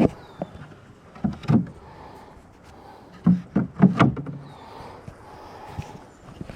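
A series of hard knocks and clunks, one near the start, two about a second and a half in and a quick cluster of four about three to four seconds in, as hive equipment is handled.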